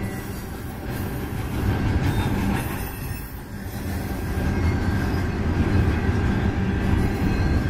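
Double-stack intermodal well cars rolling past close by: a steady rumble of steel wheels on the rails, dipping briefly a few seconds in.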